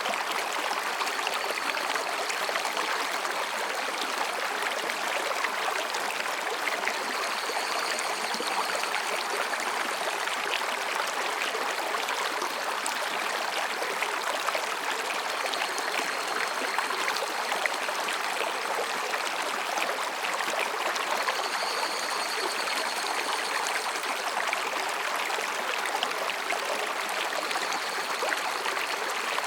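A mountain stream flowing between rocks: a steady babble and splash of water. Faint, high calls of higurashi (evening cicadas) come and go about five times, each lasting a second or two.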